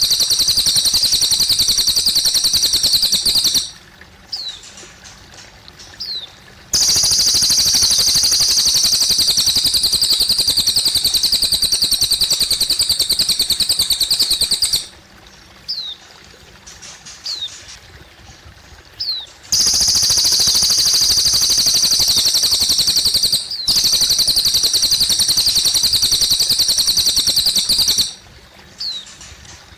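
A cililin bird singing long, rapid, high-pitched trills, each lasting several seconds, three times over. Between them come short pauses with a few faint, thin, falling chirps. Trickling water runs underneath.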